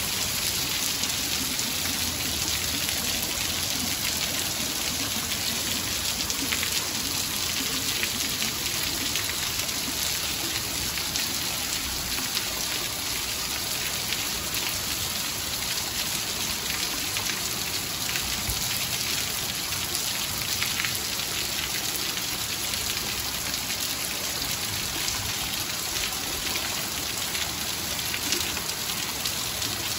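Heavy rain falling steadily, with water streaming off the edge of a roof and pattering on the wet ground.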